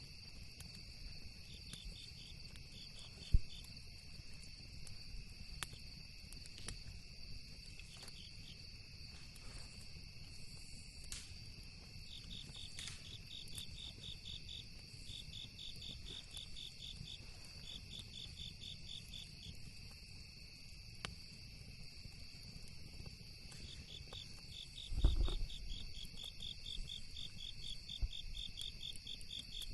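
Crickets chirping in runs of rapid pulses over a continuous high insect trill, with occasional faint crackles from a campfire. There is a single sharp knock about three seconds in and a brief low rumble a little before the end.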